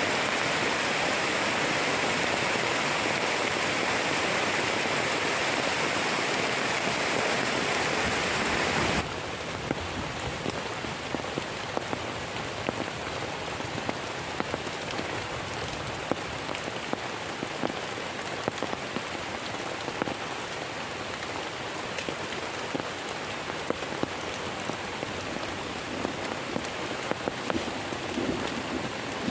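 Heavy rain falling steadily. About nine seconds in, the sound abruptly turns quieter and softer, with many separate drops ticking sharply through the wash of rain.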